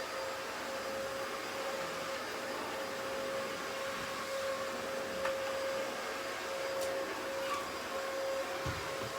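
Upright vacuum cleaner running at full speed, its motor giving a steady whine over a rushing airflow, with a few small clicks along the way.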